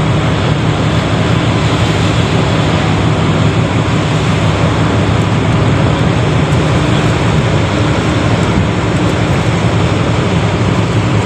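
Tanker's engine running steadily with a low hum, under a constant rush of strong wind.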